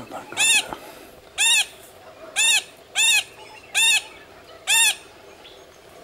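A bird calling a series of short notes, each rising and then falling in pitch, about one a second, six in all, stopping about a second before the end.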